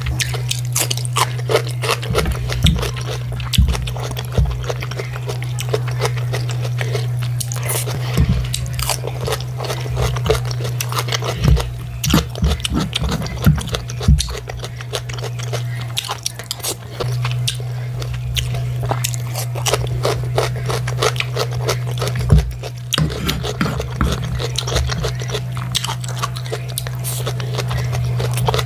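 Close-miked chewing of food, with many short wet clicks and smacks, and a metal spoon scraping and tapping on the plate, over a steady low hum.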